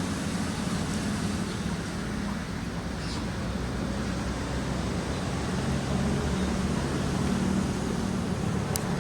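Steady low hum of a running motor under an even hiss, holding level throughout.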